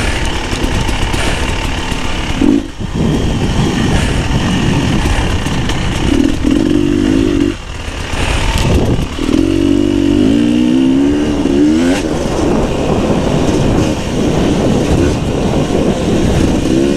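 Beta 300 RR two-stroke enduro motorcycle engine running under way, its pitch rising and falling with the throttle. The engine drops off briefly about three times: at about 3 s, near the middle and just after it.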